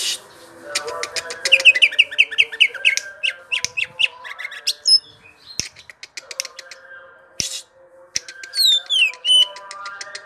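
Greater green leafbird (cucak ijo) singing a long, varied rolling song: rapid clicking trills, quick slurred whistles and a few harsh rasping notes, with brief pauses.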